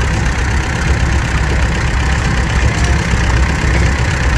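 Antique farm tractor engine running steadily at low speed with a low engine note.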